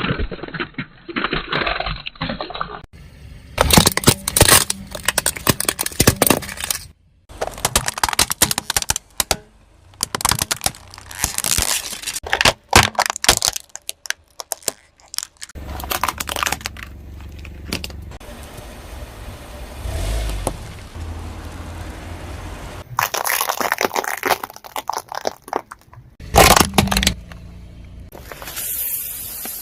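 Objects cracking, snapping and crunching as a car's tyres roll over them, in a series of separate crushes with sharp cracks clustered together. A low steady rumble runs for several seconds in the middle.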